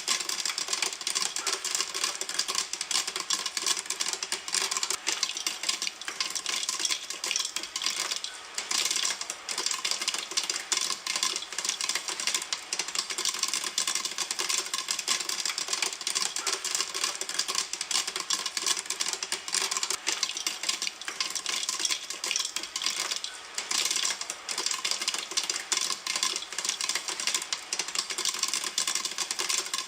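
Popcorn popping in a pan: a dense, continuous crackle of many small pops.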